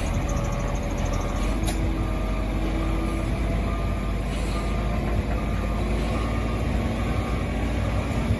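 A heavy vehicle's diesel engine running with a low rumble while its reversing alarm beeps at a steady, even rhythm. There is one sharp click a little under two seconds in.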